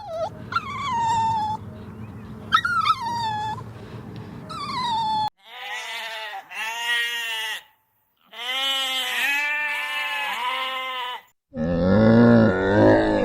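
Several different animal calls one after another: first high whining calls that fall in pitch, then quick strings of short repeated calls, and near the end a loud, deep call.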